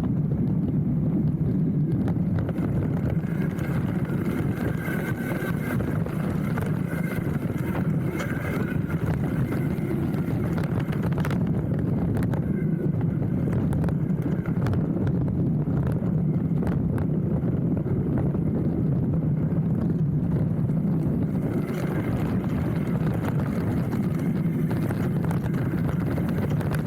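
Hardtail mountain bike rolling down a dirt trail, picked up at the handlebar: a steady tyre rumble with frequent small clicks and rattles from the bike.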